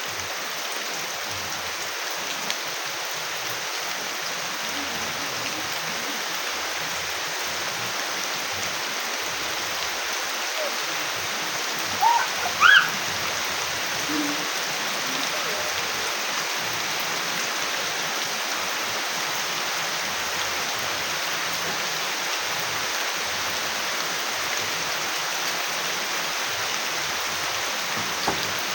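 Steady rain hissing. About halfway through, two brief high calls rise above it.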